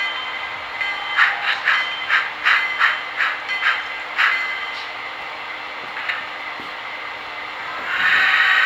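Steam locomotive exhaust chuffs at a slow, fairly even beat, about two to three a second, for a few seconds, then fading before a swell of hiss near the end.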